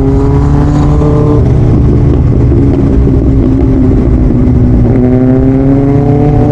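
Motorcycle engine running under way with heavy wind rumble. The engine note holds steady for the first second and a half, breaks up, then climbs steadily again over the last second and a half as the bike accelerates.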